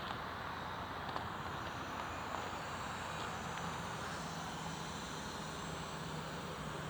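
Scania 410 truck engine running steadily, an even hum that holds at one level, with a faint steady low tone coming in about three seconds in.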